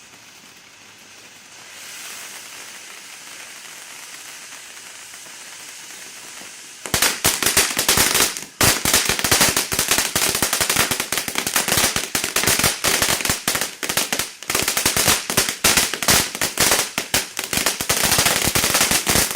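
Winda Bouquet fountain firework spraying sparks with a steady hiss, then about seven seconds in breaking into loud, dense, rapid crackling that keeps going, with a brief dip shortly after it starts.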